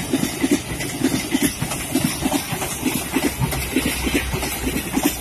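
Passenger train coaches rolling past close by, their wheels clattering over the rail joints in a quick, uneven run of knocks over a steady rumble and hiss.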